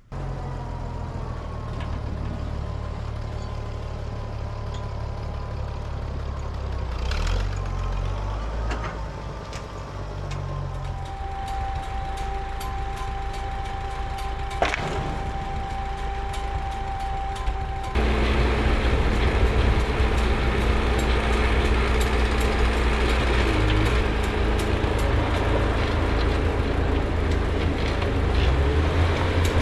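Farm tractor engine and machinery running steadily, a continuous low drone. About eighteen seconds in it switches abruptly to a louder, fuller running sound.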